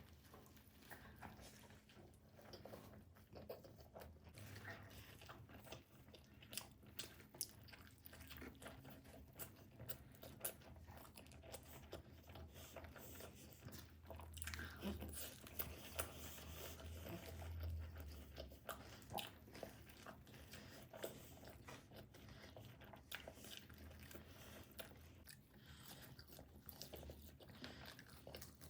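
Close-miked eating of tomato pizza: bites crunching into the crust and chewing, with many sharp, irregular crunchy clicks and a denser stretch of chewing about halfway through.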